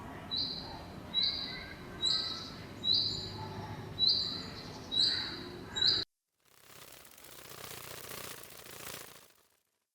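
An animal giving a short, high, whistle-like call seven times, a little under one a second. It cuts off suddenly, and a faint hiss follows.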